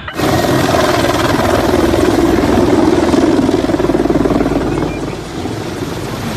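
Helicopter sound: a dense, fast rotor chop over engine noise that starts abruptly and eases slightly about five seconds in.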